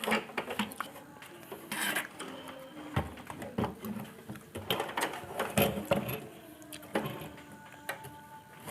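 Irregular clicks and light knocks of handling on a workbench: tools and the TV's circuit board being moved about, at an uneven pace with short gaps between.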